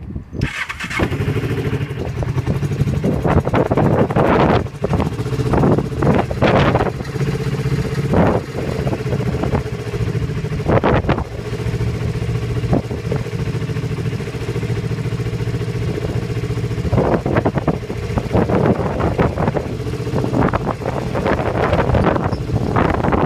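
Kawasaki GPX250R's parallel-twin engine catching about half a second in on a cold start without the choke, then settling into a steady, even idle.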